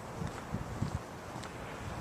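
Wind buffeting the microphone in uneven low puffs over a faint steady hiss, with a few faint ticks.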